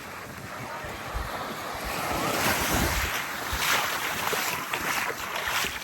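Small waves breaking and washing up the sand, swelling louder about two seconds in, with wind buffeting the microphone.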